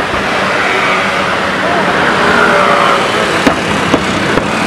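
Dense crowd chatter from a large gathering of spectators, with three sharp cracks about half a second apart in the last second and a half.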